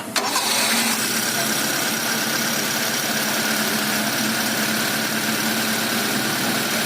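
Rebuilt Proton Magma 4G13 SOHC engine, fitted with 4G15 pistons and a 272° racing cam, starting up. It catches right at the start and settles into a steady idle within about a second.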